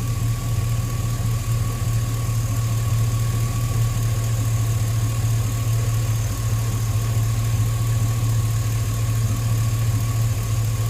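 2005 Chevrolet Tahoe's 5.3-litre V8 idling steadily, with a thin steady whine above the engine note. The engine is running smoothly on a freshly repaired engine ground, which the mechanic takes for the cure of its stalling.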